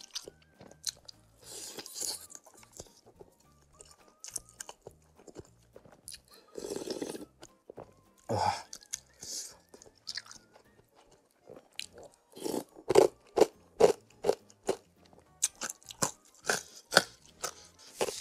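Close-miked mukbang eating of spicy soup noodles: wet chewing, crunching of crispy basreng topping and a couple of longer slurps, with a steady run of chewing strokes about two a second in the second half.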